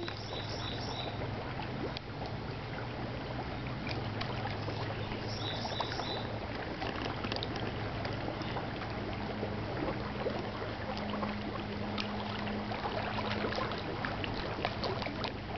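Water lapping and splashing with small irregular drips, over a steady low hum. Two short runs of three high chirps come near the start and again about five seconds in.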